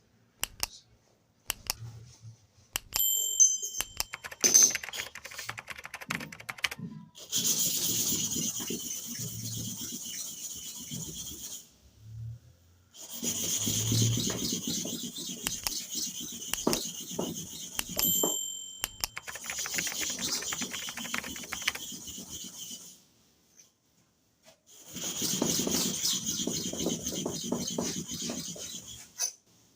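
Steel clipper blade rubbed back and forth on an oiled sharpening stone: a hissing scrape in four long stretches with short pauses between. There are a few brief metallic rings near the start and again midway.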